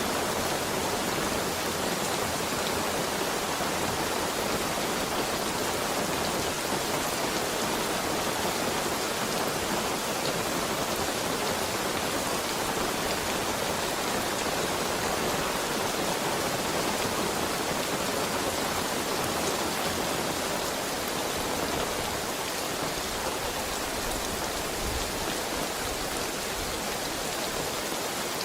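Heavy rain falling steadily, a dense even hiss of drops on surfaces with no thunder, easing slightly in loudness near the end.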